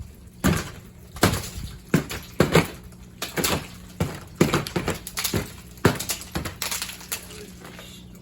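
Ice crunching and cracking in a series of sharp, fairly regular crunches, about one or two a second, fading a little toward the end.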